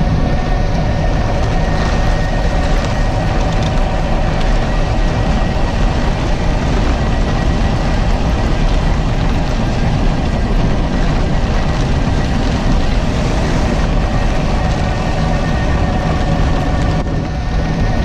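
Continuous wind and road noise from a PEBL pedal-electric bike car riding through a heavy rainstorm, with a steady whine running underneath.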